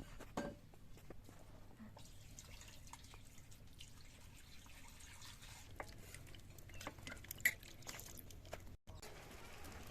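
Faint scattered clicks and drips of water over a low steady hum.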